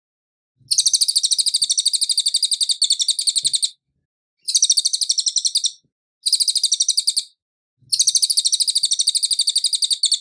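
Cililin singing: rapid, high-pitched, pulsing trills in four bursts of one to three seconds each, separated by short pauses.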